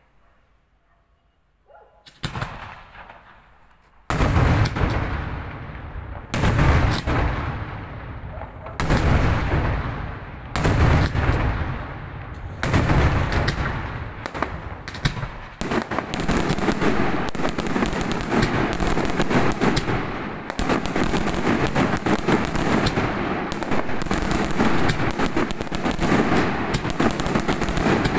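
Daytime fireworks barrage of loud bombs and firecrackers: after a near-silent pause, single heavy bangs come about every two seconds from about four seconds in, then build into a dense, continuous rattle of rapid explosions from about sixteen seconds on.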